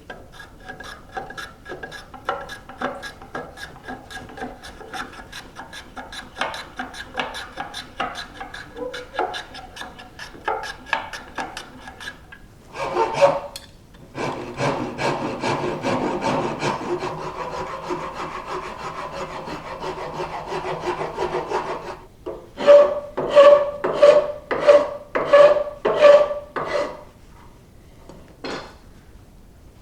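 Hand sanding a wooden rod with sandpaper, in quick back-and-forth strokes: a rapid, rhythmic rasping, steadier in the middle, with about eight louder, slower strokes near the end. The wood is being smoothed with fine 150-grit paper after 100 grit.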